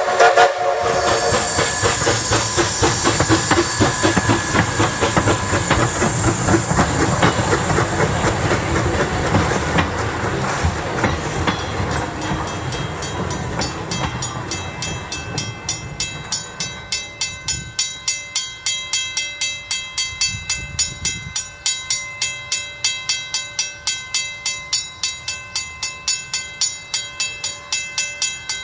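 Train moving on the track: a hiss of steam in the first half fades into an even, rhythmic clicking of wheels, about three clicks a second, with a faint ringing tone above it.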